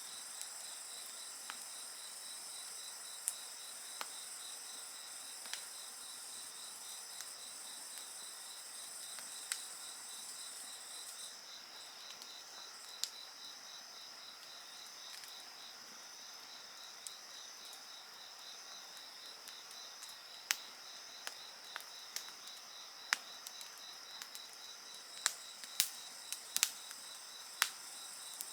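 Insects calling in steady, overlapping high trills, one of them finely pulsed, while a wood fire crackles with sharp pops and snaps that come more often in the last third. The highest insect voice drops out about eleven seconds in.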